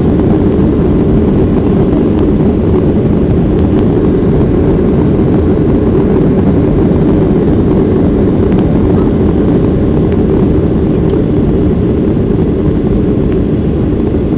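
Boeing 737-800's CFM56-7B jet engines running at takeoff power, a loud, steady noise heavy in the low end.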